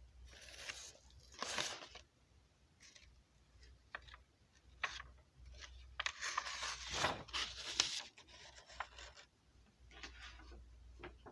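Intermittent rustling and scraping handling noises with a few short clicks, loudest about six to eight seconds in.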